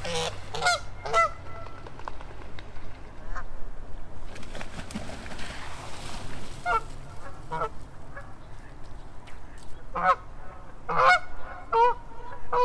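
Geese honking, calling in short honks. There is a cluster of calls in the first second, then a stretch with few calls, then more honks in the second half.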